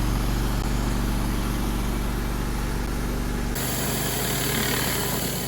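Mad Max 9 GPM pressure washer's gas engine running steadily with its pump. About three and a half seconds in, the sound changes abruptly to a thinner, hissier engine hum.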